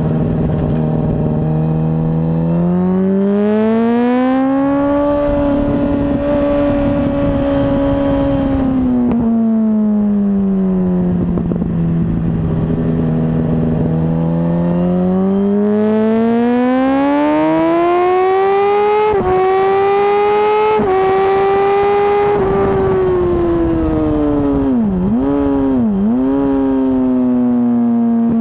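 Yamaha R1 sportbike's inline-four engine at speed on track, heard close from the bike. Its note climbs, holds and falls back as it accelerates and eases off, then climbs again through two quick upshifts about two-thirds through, with two short dips in pitch near the end.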